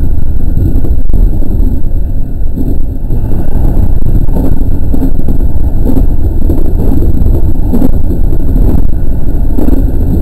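JR West 207 series electric train running along the track, heard from inside the front car: a loud, steady low rumble.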